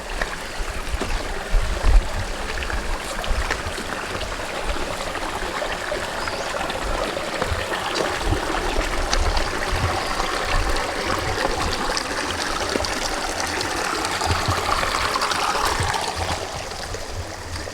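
Creek water running over rocks, a steady rushing sound, with irregular low rumbles underneath.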